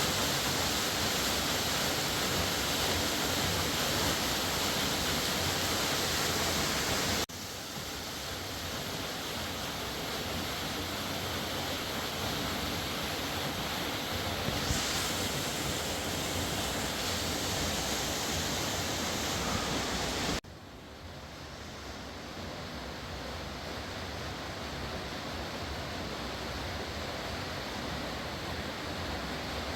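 Steady rush of a fast river, an even roar of flowing water. It drops suddenly in level about a third of the way in and again about two-thirds of the way in, then slowly rises back each time.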